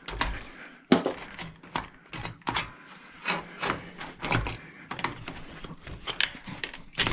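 Hand tools prying and scraping at a scrap part to break it apart: irregular clicks, knocks and scrapes, the sharpest knock about a second in.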